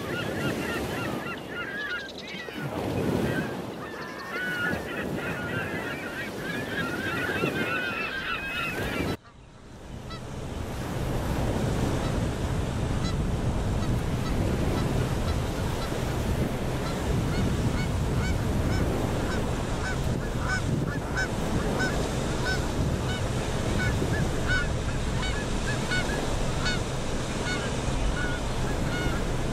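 A flock of Canada geese and other waterbirds calling, with many overlapping honks and wavering calls for the first nine seconds. After a brief drop-out, steady wind and small waves on the shore carry on under scattered, fainter calls.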